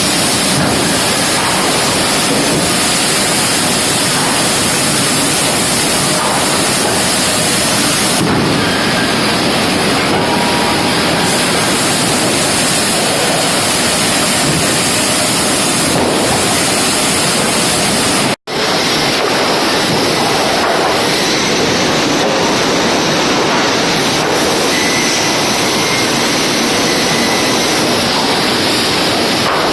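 Sawmill machinery running: a loud, steady, dense industrial din with no clear rhythm, broken by a momentary gap partway through.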